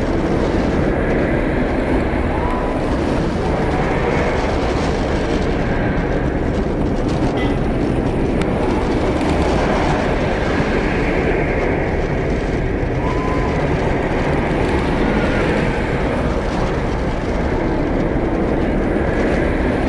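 Steady rumbling noise of a vehicle in motion, with no break or change.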